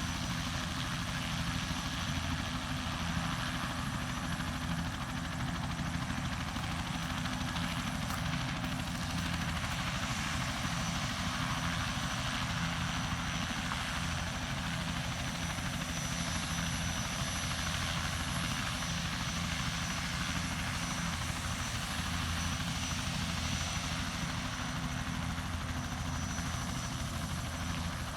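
Helicopter running steadily, with a rapid low rotor beat under a thin, steady high whine.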